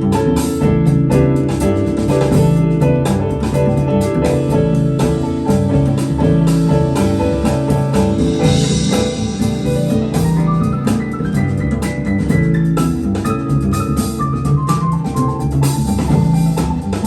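Instrumental passage of a pop song with a steady drum beat, played back through KLH Model 3 loudspeakers.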